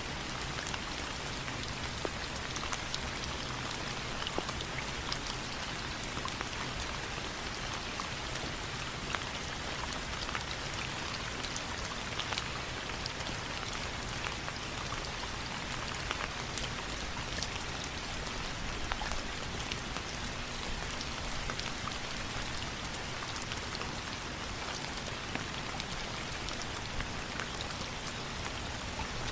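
Steady rain falling, a constant hiss dotted with many small sharp ticks throughout.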